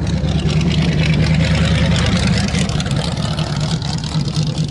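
Vintage race cars driving on a sand track, their engines giving a steady low note that is loudest a second or two in.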